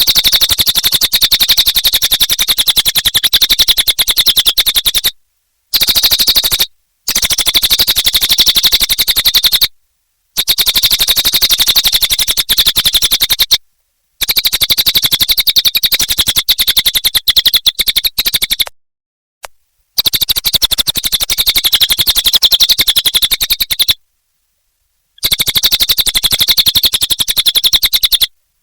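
Cililin bird singing a rapid, high trill of quick repeated notes, in loud bouts of a few seconds each that start and stop abruptly, with about seven bouts separated by short silent gaps.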